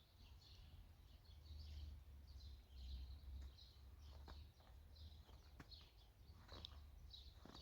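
Faint chirping of several small birds, many short calls overlapping. Underneath is a low rumble, with a few soft knocks.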